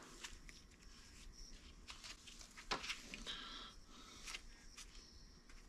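Faint handling noises from a recoil starter's spring pulley and housing being turned by hand to line up the cord hole: scattered small clicks and scrapes, the loudest a little under three seconds in, with a brief rustle just after.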